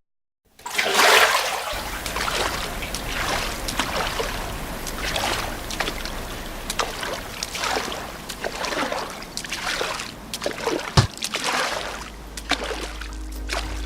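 Rain and splashing, trickling water. It starts suddenly after a moment of silence, with many short splashes through a steady wash of noise. A low drone comes in near the end.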